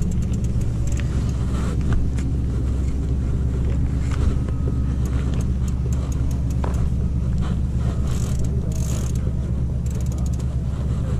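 Steady low hum of a motor vehicle engine idling nearby, with short runs of a mountain bike's rear freewheel ticking as it coasts, one run near the end.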